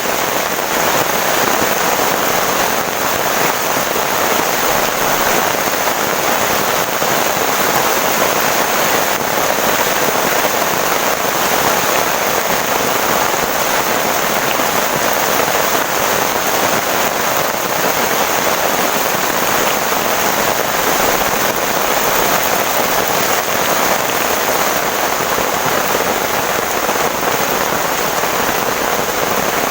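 Heavy rain falling steadily, a dense, unbroken hiss of drops.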